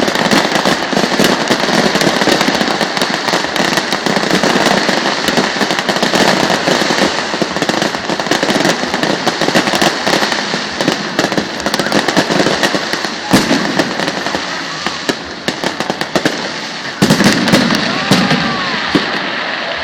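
Aerial fireworks display: a dense, continuous crackling and popping of bursting shells, with louder bangs about 13 seconds in and again near 17 seconds.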